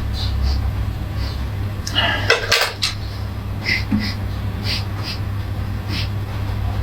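Dishes clinking and rattling: light scattered clinks, with a short burst of louder clattering about two to three seconds in, over a steady low hum.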